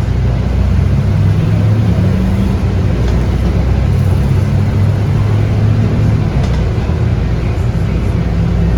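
Scania DC9 8.9-litre five-cylinder diesel of a Scania K230UB bus running under way, a steady low drone with road noise, heard from inside the bus.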